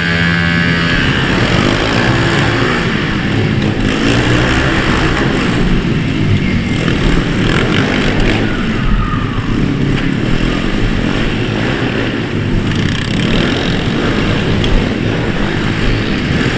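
Pit bike engines revving and running as the bikes ride, their pitch rising and falling with the throttle.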